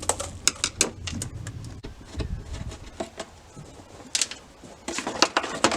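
Irregular clicks, knocks and light clatter of the factory air intake's parts being unclipped, pulled off and handled, with the clicks coming thicker near the end.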